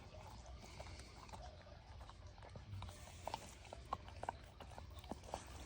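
Old Labrador retriever chewing food fed from a hand: faint, scattered mouth clicks and smacks, coming more often from about three seconds in.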